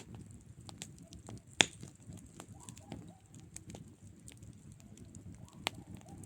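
Wood campfire crackling with irregular pops over a low steady rush of flame. One loud, sharp pop comes about one and a half seconds in, and a smaller one near the end.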